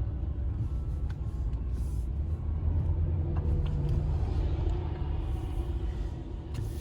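Steady low rumble of a motor vehicle's engine, swelling slightly about three seconds in.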